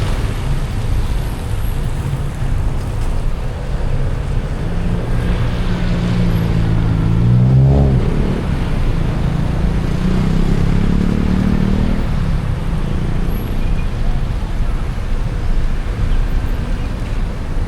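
Car driving through city traffic on a wet road: a steady low rumble with tyre and road hiss. Through the middle an engine note rises in pitch twice as a vehicle accelerates, then drops away suddenly.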